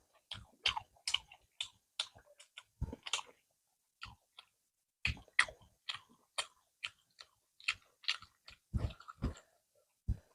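Close-miked chewing of a meal of spicy egg, roti and vermicelli: irregular wet mouth clicks and smacks, one or two a second, with short pauses between.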